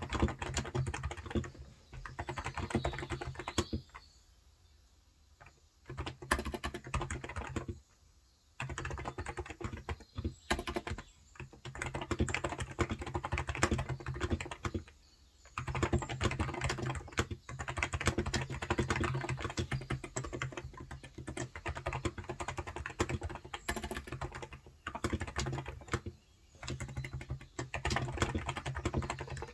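Typing on a COX Endeavor electro-capacitive (contactless) keyboard with light 35 g switches: fast runs of soft keystrokes broken by short pauses, about four seconds in, near eight seconds and around fifteen seconds.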